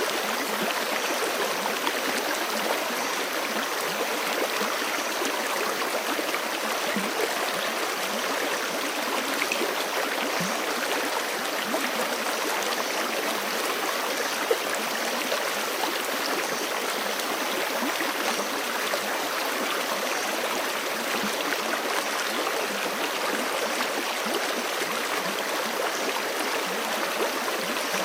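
Forest stream running steadily over rocks, a continuous rushing and babbling of water.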